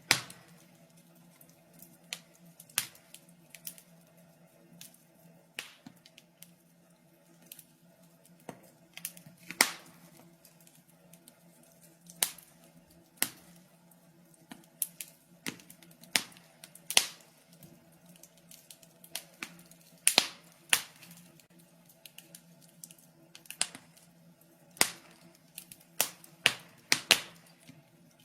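Wood fire crackling in a fireplace: sharp, irregular pops and snaps, several a second at times, over a faint steady low hum.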